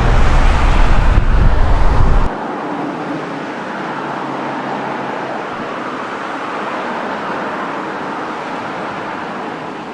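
Outdoor background noise with no voices: a loud, heavy low rumble that drops off abruptly a little over two seconds in, then a steady, quieter hiss like distant road traffic.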